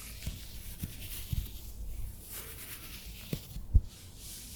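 Close-miked ASMR trigger sounds: soft scattered clicks and low thumps over a faint hiss, with one louder bump about three-quarters of the way through.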